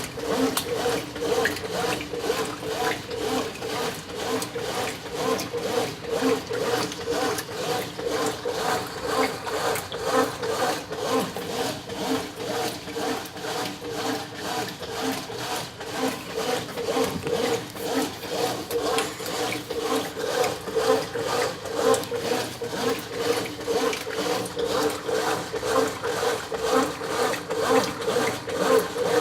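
Brastemp 9 kg washing machine agitating a full load: a steady motor hum under a rhythmic swish of about two strokes a second.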